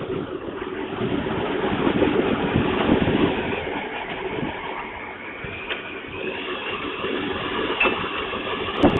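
Strong wind buffeting the microphone in rumbling gusts that swell and ease, loudest about two to three seconds in, with a short click near the end.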